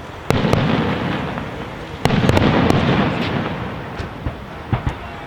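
Aerial fireworks shells bursting in a large display: one loud burst just after the start and another about two seconds in, each followed by a long fading rumble. A few smaller sharp bangs follow near the end.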